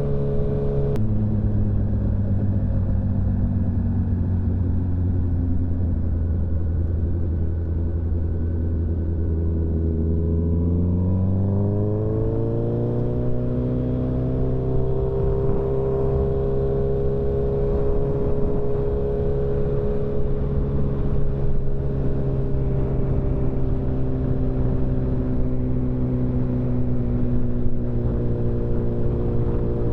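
Motorcycle engine running at a steady cruise, with a drop in pitch about a second in, then a smooth rise in pitch as it accelerates around ten to thirteen seconds in, holding steady after that.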